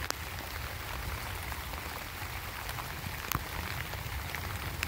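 Steady rain falling, an even hiss of drops with a few sharper individual drop taps, one clearest about three seconds in.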